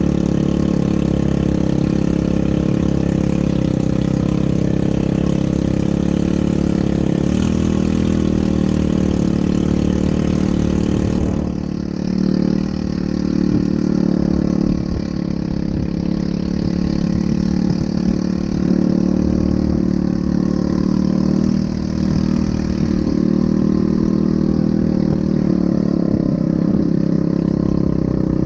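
ATV engine running steadily, with a brief dip in level a little before halfway.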